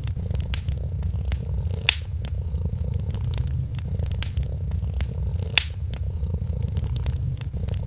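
A cat purring steadily, a low continuous rumble, with a wood fire crackling over it: scattered small pops and two louder snaps, one about two seconds in and one a few seconds later.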